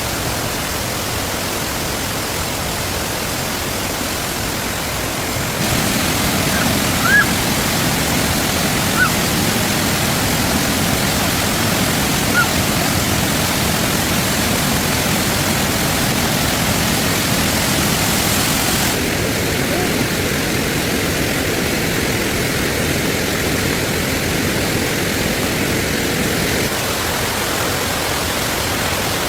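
Steady hiss of falling rain, its tone shifting abruptly a few times, with a few short high chirps about a third of the way in.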